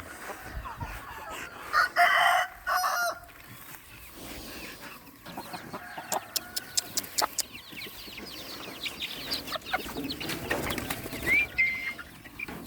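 Chickens clucking, with a rooster crowing loudly about two seconds in. A quick run of sharp clicks follows around six to seven seconds in.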